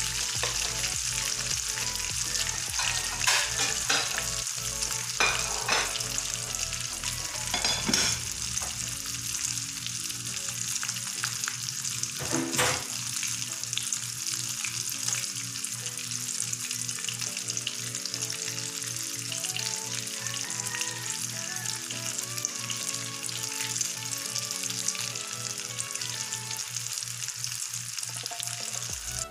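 Eggplant omelette shallow-frying in hot oil in a nonstick pan: a steady sizzle, with several louder pops and crackles in the first half.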